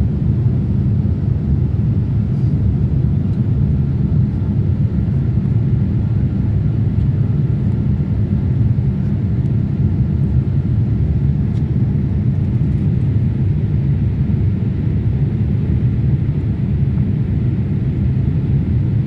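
Steady low cabin rumble of a Boeing 787-8 Dreamliner climbing after takeoff: engine and airflow noise heard from inside the cabin, even and unchanging.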